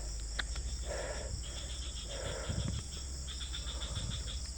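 Night insects, crickets, trilling in fast, steady pulses, with two lower, softer calls about one and two and a half seconds in.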